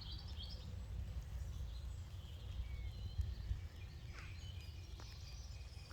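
Low rumble of wind on the microphone, with faint, scattered bird calls and chirps; one clearer call comes about four seconds in.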